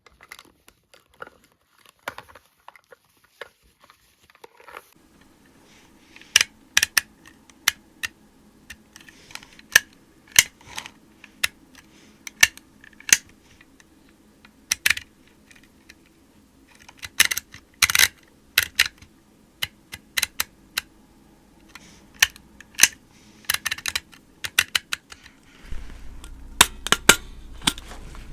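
Irregular, close-up tapping and clicking on small hard objects, sharp clicks coming singly and in quick clusters. A faint steady hum joins about five seconds in.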